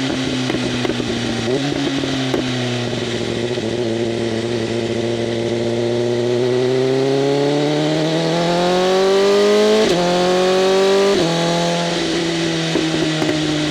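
BMW M1000RR's inline-four engine through an SC-Project CRT exhaust with its flaps open, riding steadily, then pulling hard with the pitch climbing. There are two quick upshifts about ten and eleven seconds in, after which the engine settles back to a steady run.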